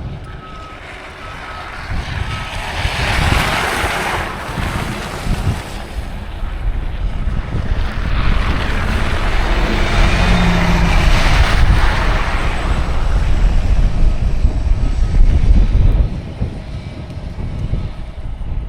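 Wind buffeting the microphone while two vehicles pass on the snowy street, each a swelling and fading hiss of tyres: one about three seconds in, a longer one from about eight to twelve seconds.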